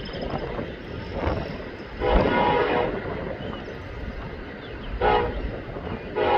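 Freight train locomotive horn sounding over a steady low rumble: a blast of about a second roughly two seconds in, a short blast about five seconds in, and a long blast starting near the end, a crossing-warning pattern.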